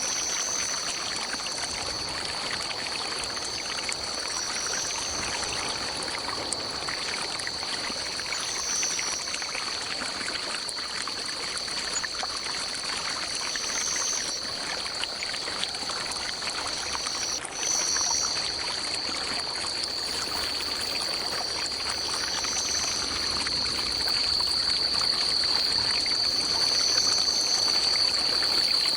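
Small forest stream trickling and running over rocks, with a steady high drone of insects and a second insect call that swells about every two seconds; the drone grows louder after a brief dip just past the middle.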